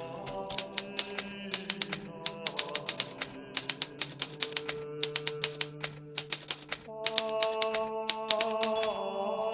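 Hermes Baby portable typewriter being typed on: rapid, uneven runs of key strikes. Soft background music with long held notes plays underneath and swells near the end.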